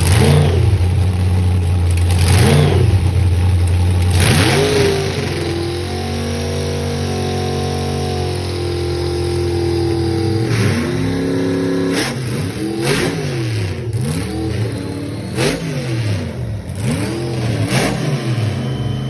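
Car engine being revved: a few quick throttle blips over a deep idle, then held at a steady higher speed for several seconds. After that comes a string of short revs about once a second.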